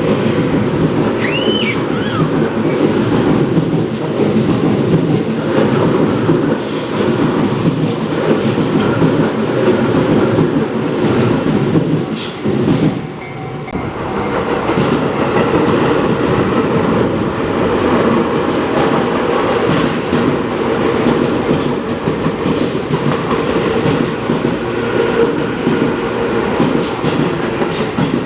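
Tobu Tojo Line 10000-series electric commuter trains passing close by, with wheels clattering over the rail joints. The noise dips briefly about 13 seconds in, then a second train's passing noise builds again.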